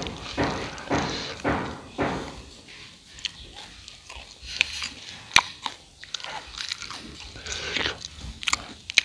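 A person chewing crispy fried rice cakes (Khmer bai kdaing) with mouth-open crunching. The chewing strokes come about twice a second for the first couple of seconds. Then the chewing turns softer, with a few sharp crackling snaps; the loudest comes about five seconds in.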